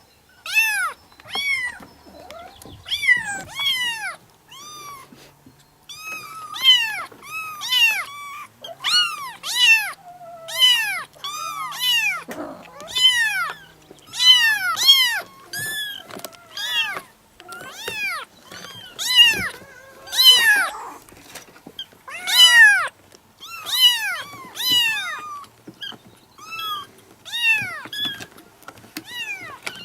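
A cat meowing over and over, short high calls that rise and fall in pitch, roughly one a second with brief gaps.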